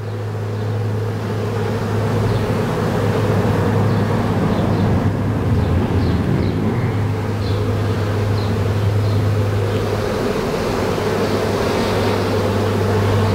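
Dense buzzing of a large honey bee swarm close up, swelling over the first couple of seconds and then holding steady, over a steady low hum.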